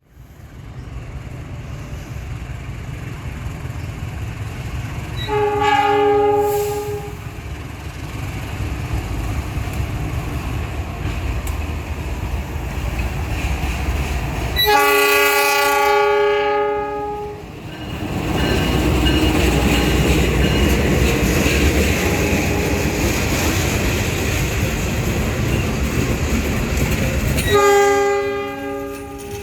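Diesel-electric locomotive of an Indonesian passenger train sounding its horn three times, each blast a steady chord lasting one to three seconds, the middle one longest and loudest. Underneath is a steady low rumble of the engine and wheels on the rails.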